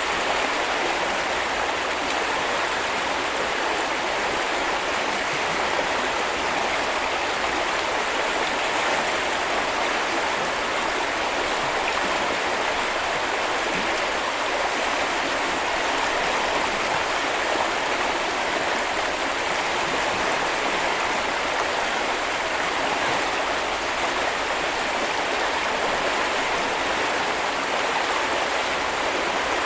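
A river stream flowing and splashing over stones: a steady, unbroken rush of water.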